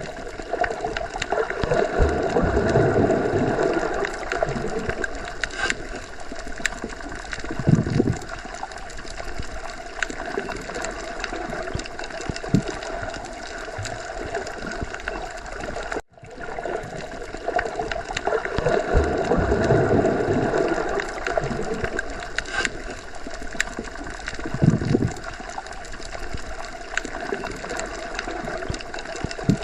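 Underwater sea ambience: a steady watery rush with slow gurgling swells. It cuts out briefly about halfway through, then the same swells repeat.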